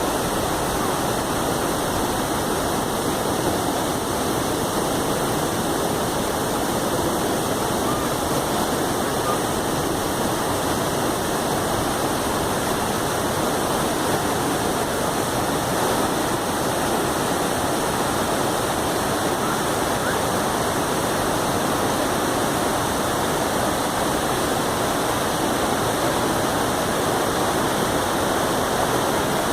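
River waterfall rushing steadily, a constant roar of falling water.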